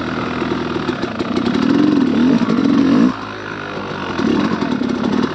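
Dirt bike engine revving under throttle, its pitch climbing and wavering for a couple of seconds, dropping off suddenly about three seconds in as the throttle is shut, then rising again.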